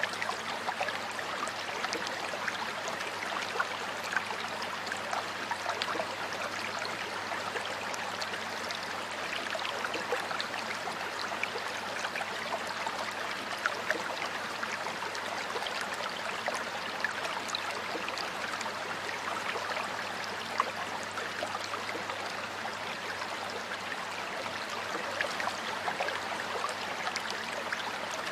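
Stream water flowing and babbling steadily, with many small splashes and droplet ticks over an even rushing hiss.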